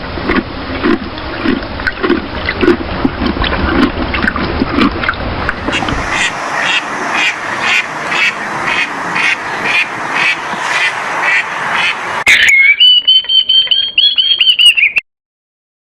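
Animal calls: a run of loud rhythmic repeated calls at about two a second, then a long high whistling call near the end that stops abruptly.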